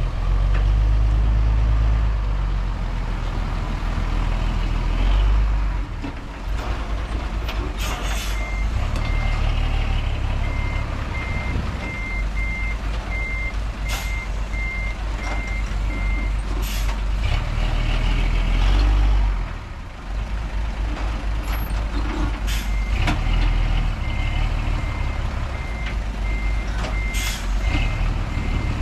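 Heavy diesel machinery engines running and repeatedly swelling under load, with a reversing alarm beeping at an even pace: once for about eight seconds starting a third of the way in, and again near the end. A few short, sharp noises cut through.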